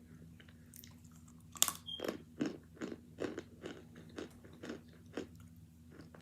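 A hard chunk of boiled and frozen cornstarch is bitten with one sharp crack, then chewed in a run of regular crunches, about two or three a second, that stop about five seconds in.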